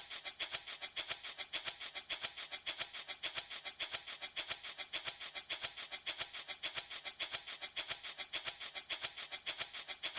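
Handmade baby rattle shaken in a steady, even rhythm of about six strokes a second, a bright, hissy rattle of beads or seeds.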